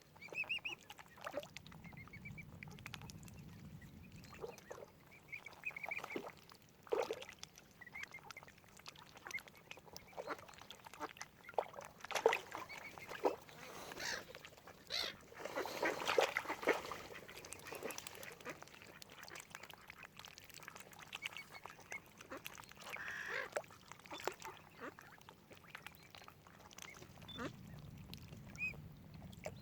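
Mallard ducks quacking in a string of short calls, busiest around the middle, with brief high chirping calls in between.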